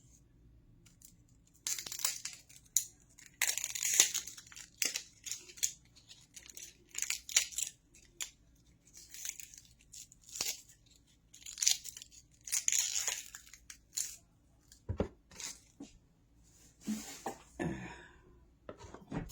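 Kitchen knife cutting through an onion on a cutting board: irregular runs of crisp, crunchy cuts with short pauses between them, and a few duller knocks of the blade on the board near the end.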